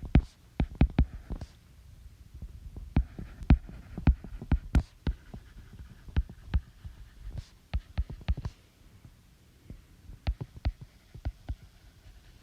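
Irregular sharp taps and low knocks from a pen striking a writing surface during writing, a few a second with short pauses between runs.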